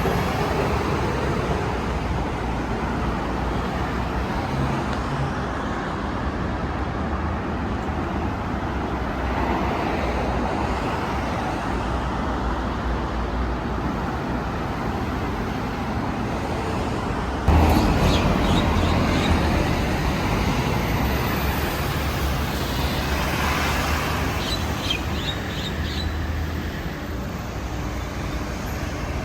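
Steady road traffic noise with a low rumble. It gets suddenly louder about two-thirds of the way through, as a vehicle passes close, then eases off.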